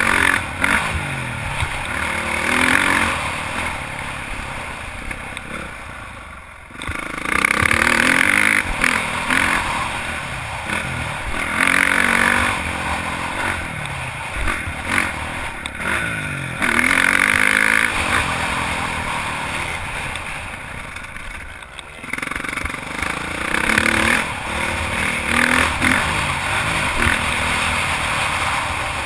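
Honda CRF450 single-cylinder four-stroke motocross bike being ridden hard, its engine revving up and falling back again and again as the throttle is opened and closed. The engine note drops away twice, about a quarter of the way in and again about three quarters through, before picking up again.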